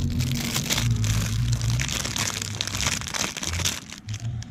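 Packaging for a new oil-filter washer crinkling and crackling steadily as it is opened by hand, easing off near the end.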